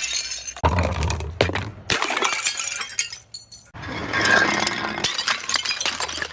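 Glass bottles being crushed and shattering, with shards crunching and clinking. There are three separate crashes, each followed by a spell of crunching and ringing.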